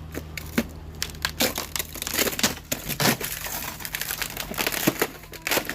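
Thin ice crunching and crackling as it is crushed, in a quick irregular run of sharp cracks that gets busier about two seconds in.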